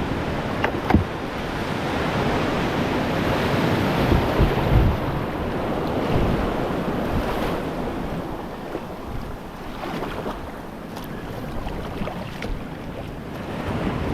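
Ocean surf washing ashore, with wind buffeting the microphone in low gusts, and a couple of sharp knocks about a second in.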